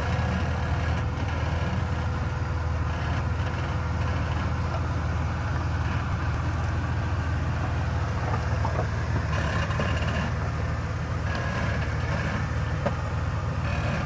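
Jeep Wrangler's engine running at low, crawling speed, a steady low drone, as the Jeep is eased down a rock obstacle.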